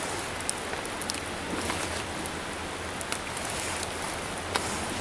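Steady rain falling, with scattered drops tapping on nearby surfaces.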